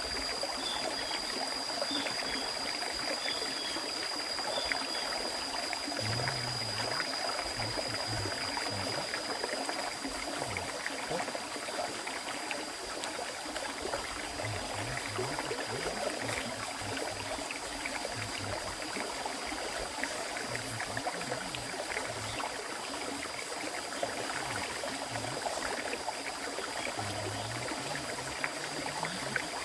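River stream flowing, a continuous rushing of water, with a steady high-pitched tone over it and a few short chirps in the first few seconds.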